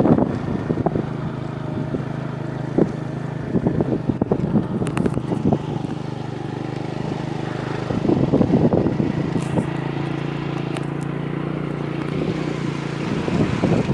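Motorcycle engine running at a steady speed, a low even hum, with gusts of wind noise on the microphone now and then.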